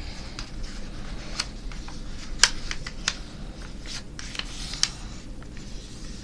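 A sheet of paper being handled and folded: rustling and crinkling with scattered sharp crackles as it is creased, the loudest about two and a half seconds in.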